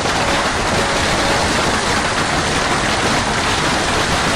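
Heavy rain falling steadily during a storm: an even, dense hiss of downpour with no breaks.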